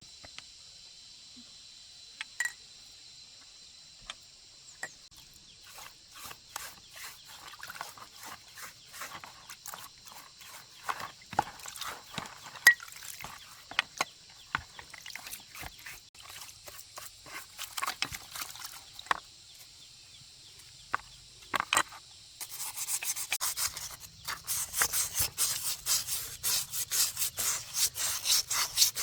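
Hand scraping and rubbing on a part: irregular scrapes and clicks, then, a little over 20 seconds in, a fast, steady run of scrubbing strokes that is the loudest part.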